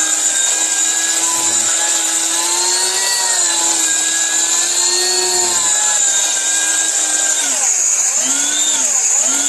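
Small high-speed electric grinder (Comet brand) running flat out, grinding rice into flour: a steady, loud motor whine with a high hiss, its pitch wavering slightly as the load shifts.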